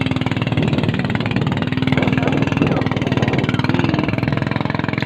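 Motorboat engine running steadily under way as it pulls a banana boat, a dense, even engine drone.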